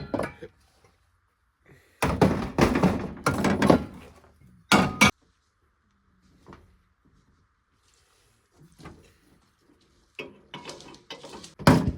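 Cooking gear being handled and set out: pots, pans and utensils clattering in bursts, with two sharp knocks about five seconds in.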